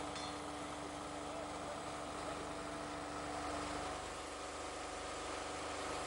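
Engine of track-maintenance equipment running steadily at idle. A steady hum over it stops about four seconds in.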